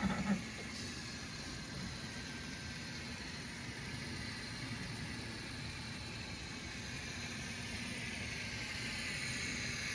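Model train running on the club layout: a steady mechanical running noise that swells slightly near the end.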